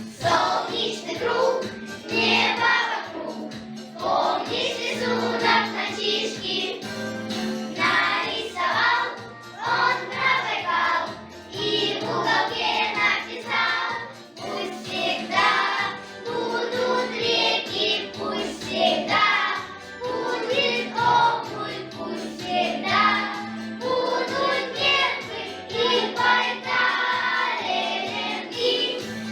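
Children's choir singing a song in unison over an instrumental accompaniment.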